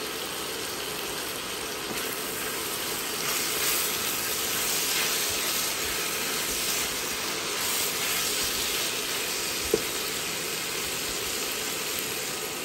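Chayote slices sizzling as they stir-fry in a wok, being turned with a silicone spatula. The sizzle swells louder while the vegetables are tossed, and a single sharp click sounds near the end.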